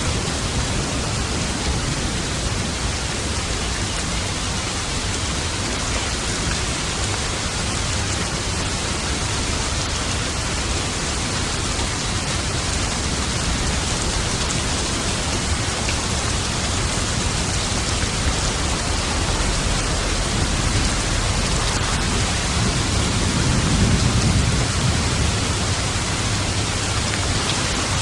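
Steady rain falling hard, with a low rumble of thunder swelling and fading a few seconds before the end.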